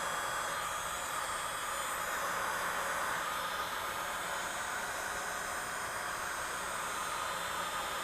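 Heat gun blowing steadily, a constant rushing hiss, as it heats the adhesive under a phone's back glass.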